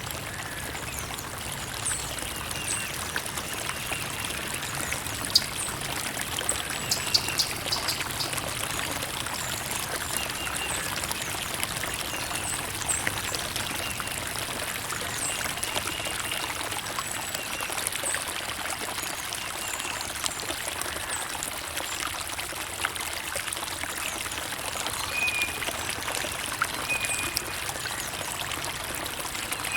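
Creek water running and trickling steadily, with small splashes and drips throughout and a few louder splashes about five to seven seconds in.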